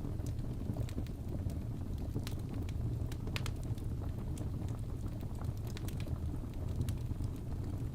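Wood fire burning in a fireplace, with a steady low rumble of the flames and irregular sharp crackles and pops.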